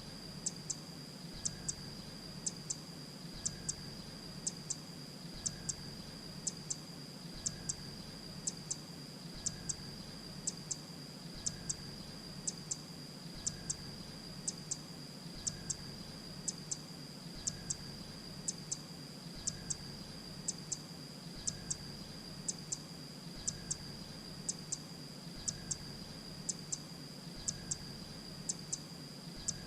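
Grey-breasted prinia calling: short, sharp high notes in pairs, repeated very evenly about once a second over a steady high whine.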